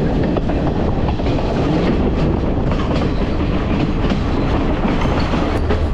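Passenger train running along the track, heard from an open carriage window: a steady rumble of wheels on rails with frequent clicks and knocks.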